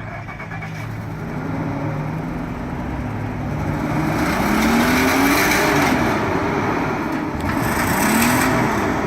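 Nissan car engine running on a cold start, idling and then revved twice. The pitch and loudness climb and fall about four seconds in and again near the end.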